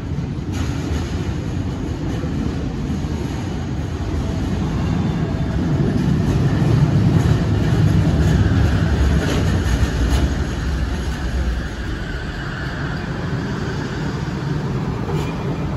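Bombardier Innovia ART 200 light-metro train arriving at a station platform and slowing to a stop. Its rumble builds to a peak as the front passes, and a higher whine sounds under it as it brakes and settles.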